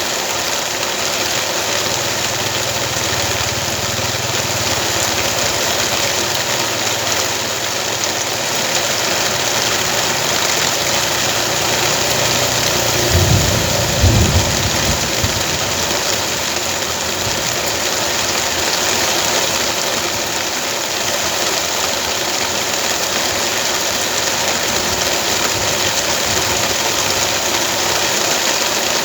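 Steady rain with a small engine running underneath; a louder low rumble swells briefly about halfway through.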